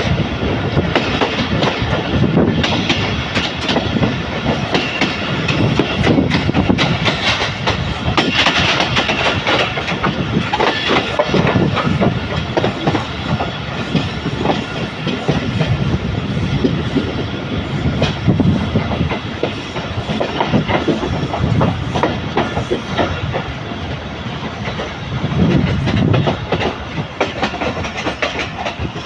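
Passenger train coaches rolling past close by, their wheels clattering over the rail joints in a steady clickety-clack with a continuous rumble.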